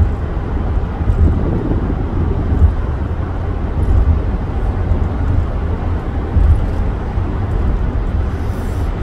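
Low, steady rumble of road and engine noise inside a moving vehicle, with uneven swells in the low end.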